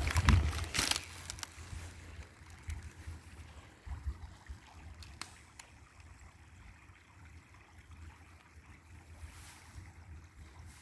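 Shallow creek being waded through: loud water splashing in the first second, then the steady run of the creek with low wind rumble on the microphone and a few faint clicks.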